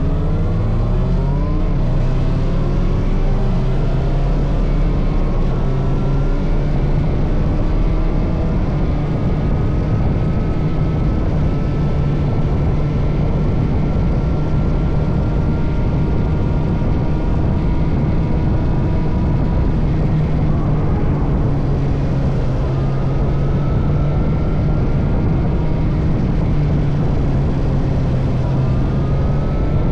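Motorcycle engine under way, its pitch climbing again and again as it accelerates through the gears, with the quickest run of climbs in the first few seconds, over a steady rushing noise.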